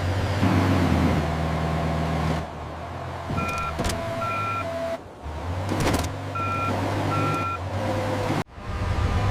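A toy-animation vehicle engine runs with a low hum. Twice, it is joined by a pair of short electronic beeps like a reversing alarm.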